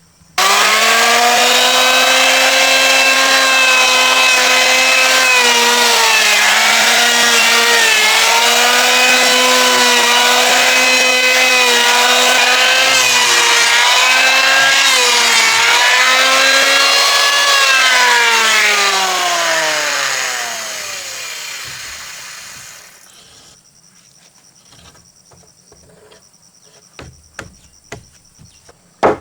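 An electric power tool's motor starts suddenly with a loud, steady whine and dips in pitch a few times as it bites into wood. It is then switched off and winds down over several seconds, its pitch falling until it stops. A few light knocks follow near the end.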